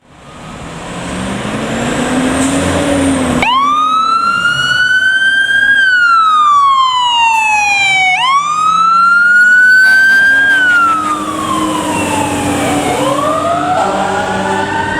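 Fire ladder truck responding with its electronic siren on a slow wail: it starts suddenly a few seconds in, then sweeps up and falls back down twice. Under it a lower siren tone rises and falls, and near the end a second siren starts winding up.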